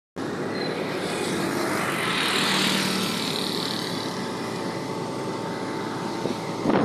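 Road traffic noise with a vehicle passing. It starts abruptly and swells, loudest about two and a half seconds in.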